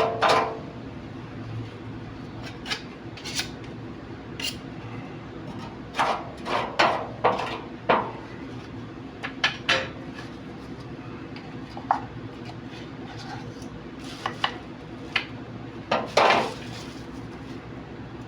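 Metal clinking and scraping at irregular intervals, like tools and small metal parts being handled, over a steady low hum.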